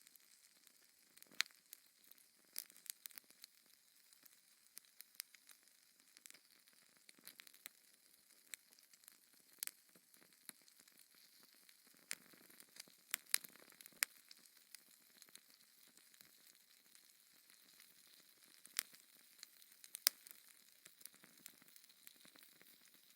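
Wood fire in a fireplace crackling: irregular sharp pops and snaps, a few louder ones standing out, over a faint steady hiss.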